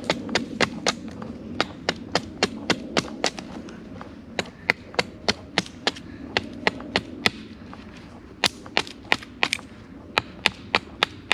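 Rapid series of sharp knocks from a hand tool striking, about three to four a second, in runs with two short pauses.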